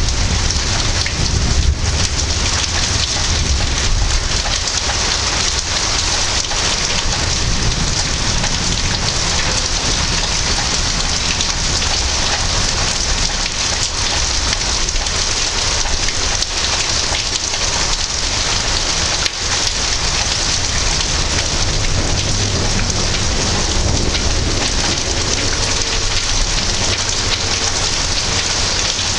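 Heavy rain pouring steadily in a thunderstorm, an even hiss with a low rumble of thunder underneath.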